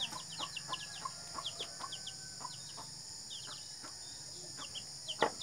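Small birds chirping in quick runs of short, falling notes, with faint light taps and a sharper knock about five seconds in.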